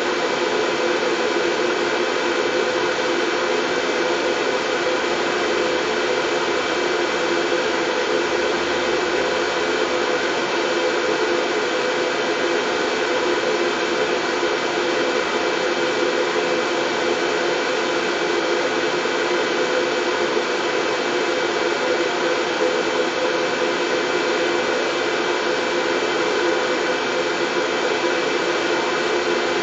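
Steady, unchanging white noise with a faint hum running through it.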